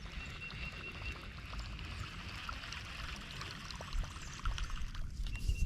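Water trickling and running close by, a steady watery hiss over a low, uneven rumble.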